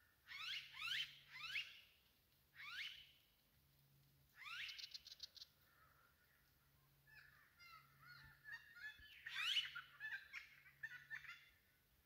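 Australian bush birds calling in several bursts of loud, sweeping calls, one ending in a quick rattle, then a busy run of short chattering notes from about seven seconds in.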